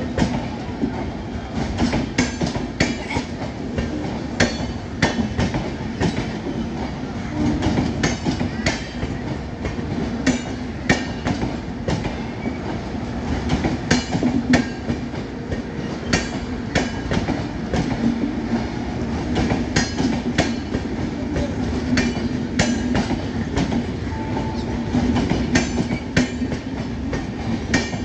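Passenger coaches of an express train rolling past, the wheels clattering over the rail joints and points in an irregular clickety-clack over a steady rumble.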